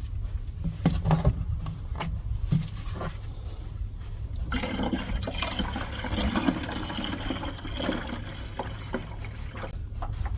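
A few light knocks, then fluid poured in a steady stream from about four and a half seconds in, topping up the Morris 1100 until it is full.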